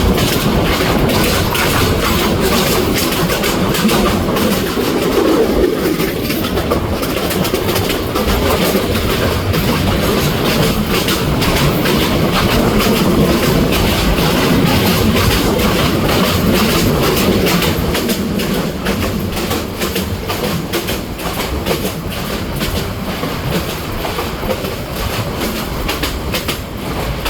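Bangladeshi local train running, a steady loud rumble with dense rapid clicking of the wheels over the rail joints and the rattle of the carriage, a little quieter in the last third.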